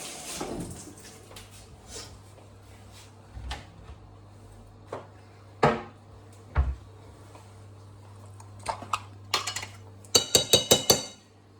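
Kitchen dishes and utensils being handled: scattered knocks and clatters, then near the end a quick run of ringing clinks of metal against dishware, over a faint steady low hum.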